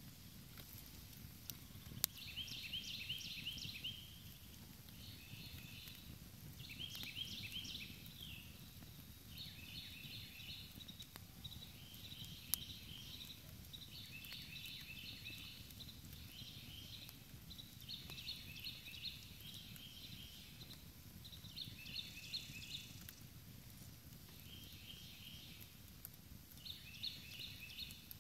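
Insects chirping in short pulsed bursts that repeat about every two seconds, over a low steady campfire hiss, with two sharp crackling pops from the fire.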